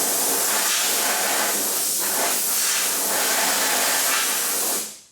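Compressed air blasting in one long, loud, steady hiss, aimed at clearing a wheel-well drain hole plugged with debris and seam sealer. It cuts off near the end.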